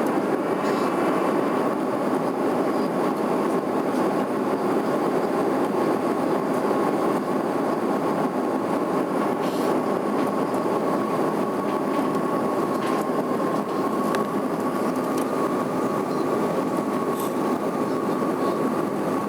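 Steady drone of an airliner cabin in flight, an even rushing noise with a constant high hum held throughout.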